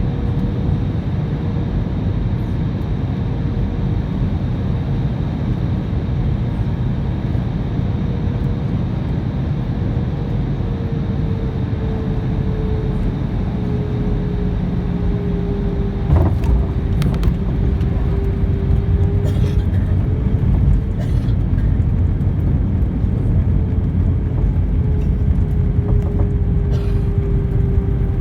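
Inside the cabin of an Airbus A320, steady engine rumble with a hum that dips slightly in pitch. About halfway through a single thump comes as the wheels touch down, and the rumble turns louder, with small rattles as the airliner rolls along the runway.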